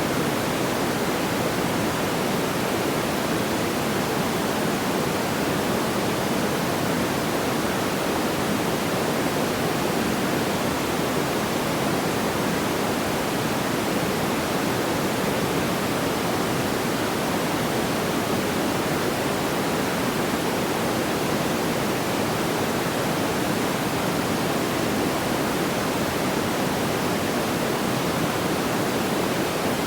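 Steady, even noise like a pink-noise hiss, fullest in the low-middle range, with no crackles, pops or changes.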